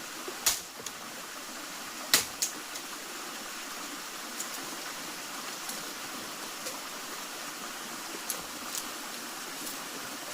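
Steady rush of flowing water, with a few sharp clicks or snaps, the loudest about half a second and about two seconds in.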